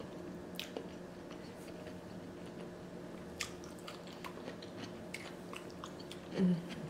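Close-up mouth sounds of a person eating sauce-drenched seafood: chewing with scattered wet lip-smacks and clicks. A short hummed 'mm' comes near the end, over a steady low hum.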